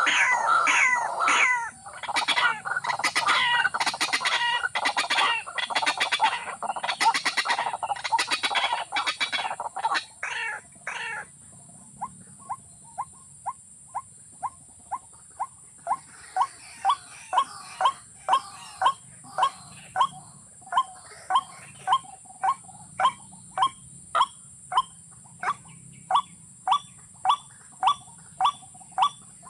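Bird calling: a dense run of loud calls for about the first ten seconds, then short calls repeated evenly about twice a second, over a steady high-pitched whine.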